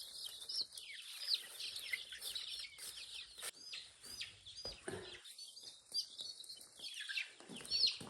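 Many young chicks peeping together, a dense chatter of short, high chirps.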